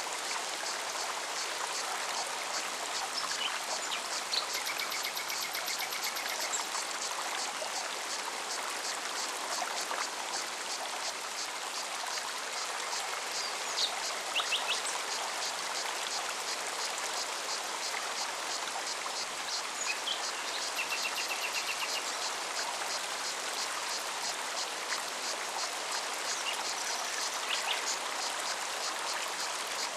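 A forest stream running steadily, with a cicada's rapid, even pulsing song above the water and short bird chirps now and then.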